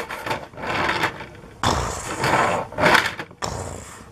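Plastic toy construction vehicles being handled on a hard surface: a run of clattering knocks and rolling scrapes, loudest in the middle.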